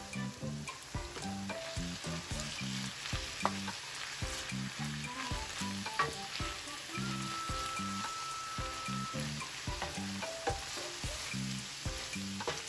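Ackee, saltfish and vegetables sizzling in oil in a stainless steel skillet while a wooden spoon stirs them, with the occasional sharp click of the spoon against the pan.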